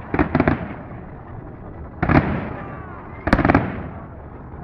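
Fireworks shells bursting overhead: a quick cluster of bangs at the start, a single bang about two seconds in and another cluster a little after three seconds, with a rumble between them.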